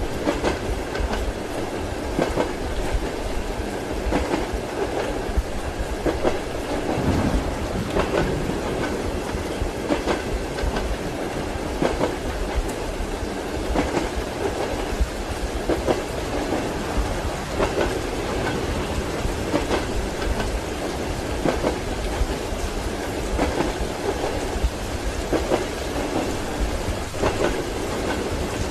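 Train wheels clacking over rail joints in a steady, repeating rhythm, heard from inside a passenger carriage, over a constant hiss of rain. A low rumble of thunder swells about seven seconds in.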